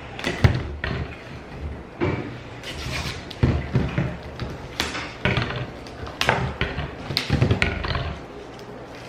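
A string of irregular knocks and thuds, one or two a second, like objects being handled and set down.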